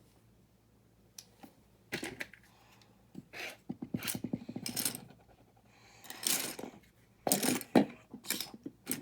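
Small plastic building bricks clicking and clattering against each other in short bursts as loose pieces are rummaged through.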